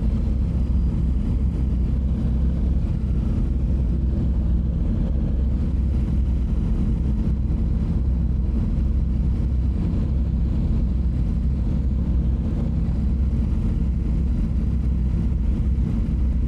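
Honda CBR sport bike riding at a steady speed: engine running evenly under a heavy, low wind rumble on the microphone.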